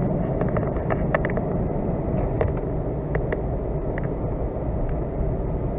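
Truck cab interior noise while driving on a snow-covered road: a steady low rumble of engine and tyres, with a few faint clicks.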